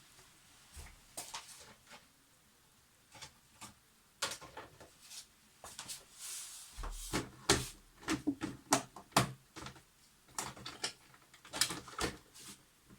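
Small camera parts being handled on a workbench: scattered light clicks, taps and knocks. They come sparsely at first, grow busier after a few seconds, and include several louder knocks in the second half.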